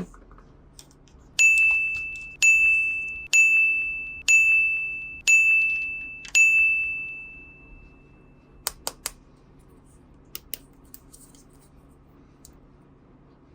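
A small bell-like chime struck six times, about a second apart, each a bright ding that rings out, the last ringing longest; a few light clicks follow.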